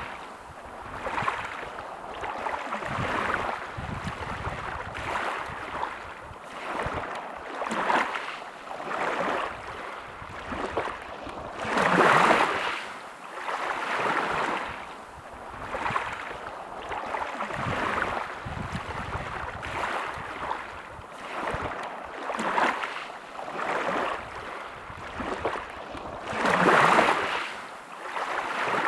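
Small sea waves washing in, a noisy rush of water that swells and falls every second or two, with two bigger surges about twelve seconds in and near the end.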